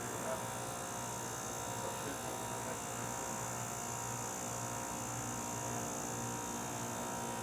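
Refrigeration compressor running, a steady electrical hum with a faint pulsing undertone and a constant high hiss.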